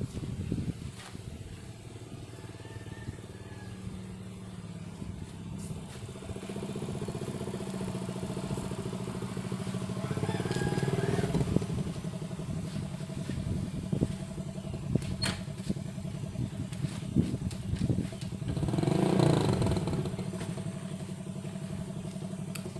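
A vehicle engine running steadily with a low drone, swelling louder twice, about ten seconds in and again near the end.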